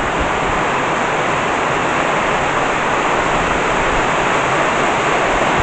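Heavy rain pouring down in a thunderstorm downpour, a steady, even hiss.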